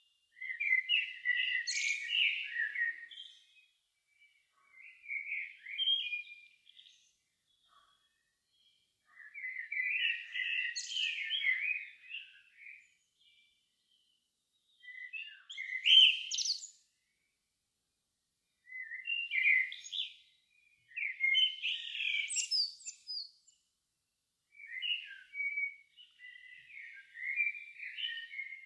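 A songbird singing a run of varied warbling phrases, each one to three seconds long, separated by short pauses, in otherwise quiet surroundings.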